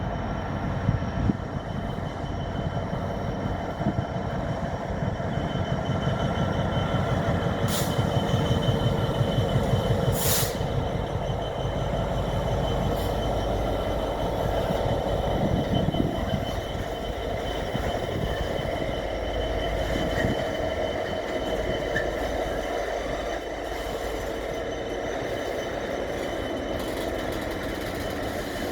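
GBRf Class 66 diesel locomotive, a two-stroke V12, passing at speed with an engineering train, its engine throb loudest in the first half. The wagons then keep rolling past on the rails with a thin, steady high squeal.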